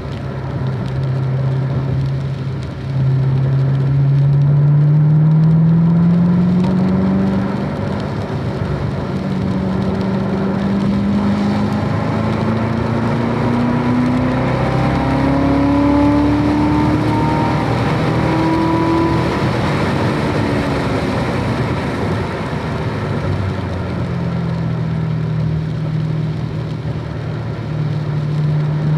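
Car engine accelerating hard through the gears on a wet track: its note climbs in steps over several seconds, then drops back as the car slows and holds steady near the end. Tyre and road hiss runs underneath throughout.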